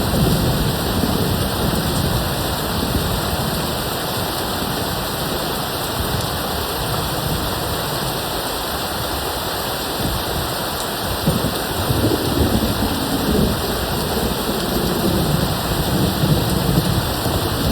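Steady heavy rain with distant thunder: a low rumble fades away in the first couple of seconds, and the thunder rolls again from about twelve seconds in.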